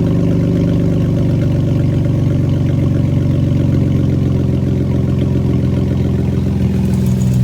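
Jeep engine idling steadily with no muffler, its exhaust dumping straight out of a short downpipe after the Y pipe, giving an even, deep-pitched note.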